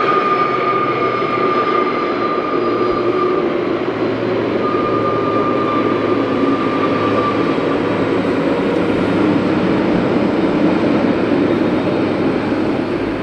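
Jet airliner engines running with a steady rush and a high whine that fades and returns.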